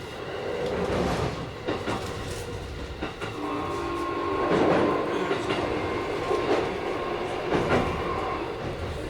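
Keikyu 1000-series electric train running, its wheels knocking over rail joints. In the middle a steady whine holds for about five seconds.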